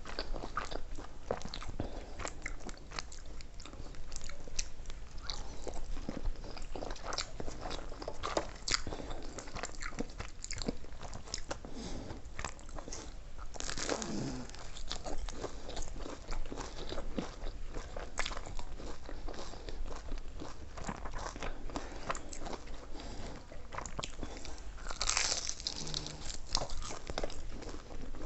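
A person biting and chewing food close to the microphone, with frequent crunching and small wet clicks. Two louder crunches stand out, one about halfway through and one near the end.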